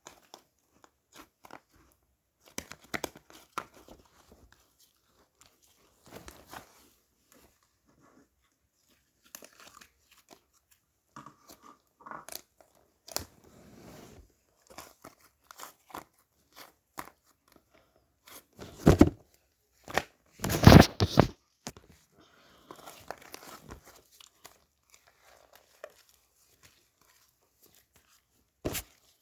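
Intermittent crinkling and rustling, like paper or plastic being handled, with scattered small clicks and two louder bursts of rustling about two-thirds of the way through.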